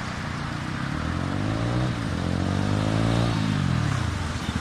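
Mahindra Mojo single-cylinder motorcycle engine and exhaust pulling away. The revs climb, dip about two seconds in as it shifts up, climb again, then fall near the end.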